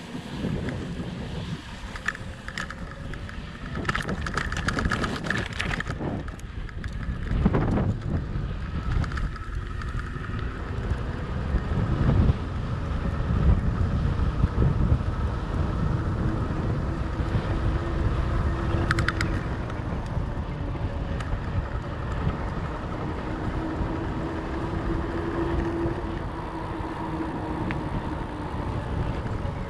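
Wind rushing over the microphone and the rumble of a fat bike's 4.4-inch Schwalbe Jumbo Jim tyres rolling along, with faint humming tones that come and go. Brief clattering about four to six seconds in.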